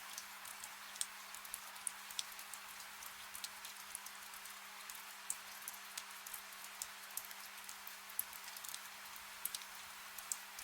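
Soft rain falling: a steady fine hiss with many individual drops ticking at irregular intervals. A faint steady low hum lies underneath.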